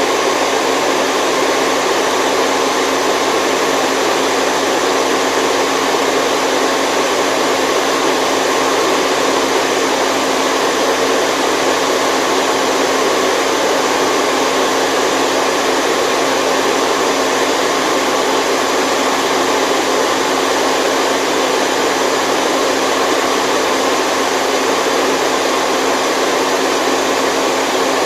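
Continuous white noise for baby sleep: an even, unchanging rush, heaviest in the middle range, with a faint steady hum running through it.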